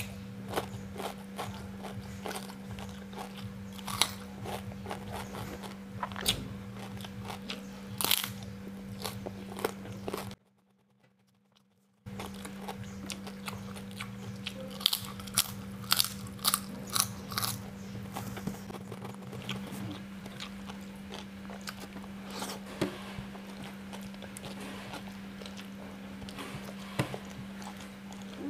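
Close-up eating: crisp crunching bites of kerupuk opak (cassava cracker) and chewing by mouth, with a steady low hum underneath. The sound cuts out completely for about a second and a half about ten seconds in, then the crunching carries on.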